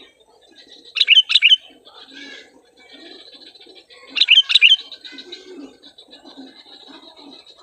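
Sooty-headed bulbul (kutilang) calling: two loud bursts of quick chirping notes, about a second in and again about four seconds in, with fainter birds calling underneath.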